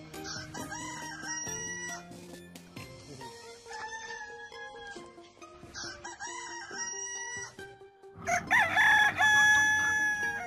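Rooster crowing three times, the last crow near the end the loudest.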